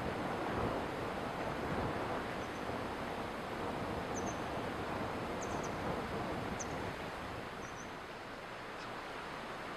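Steady rushing of a flowing stream, with a few faint, high bird chirps scattered through the middle and latter part.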